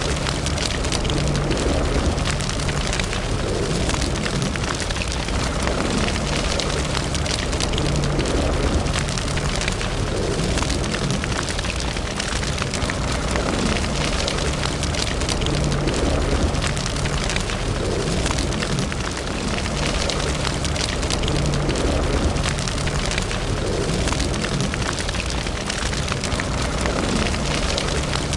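Fire burning in a fireplace: dense, continuous crackling and small pops over a steady low rumble.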